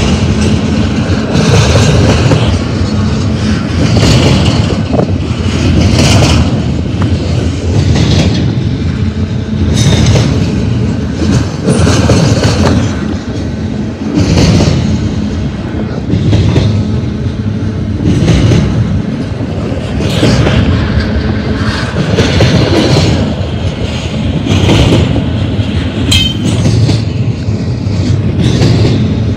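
Double-stack container train's well cars rolling past, steel wheels clattering on the rails. The noise swells about every two seconds as each car's wheel sets go by, with a brief high wheel squeal near the end.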